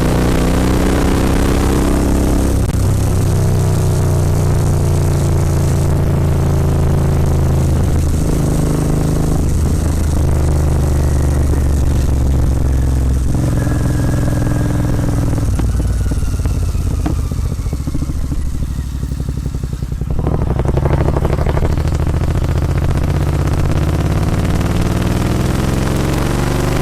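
Royal Enfield Continental GT 650's parallel-twin engine through a Red Rooster aftermarket exhaust, heard on the move: the exhaust note rises and falls with the throttle. It eases off from about seventeen seconds in and comes back on sharply about twenty seconds in.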